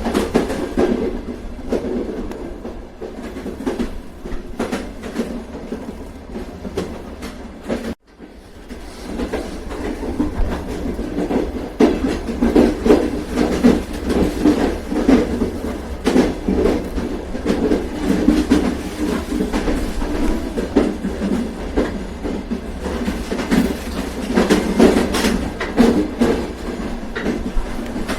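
Train running on the rails: a steady rumble with wheels clicking over the rail joints, the clicks coming thicker in the second half. The sound cuts out briefly about eight seconds in and builds back up.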